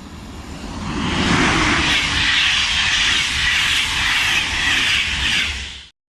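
A train passing close by: loud rushing wheel-and-rail noise with a deep rumble underneath. It builds over the first second, holds steady, then cuts off abruptly near the end.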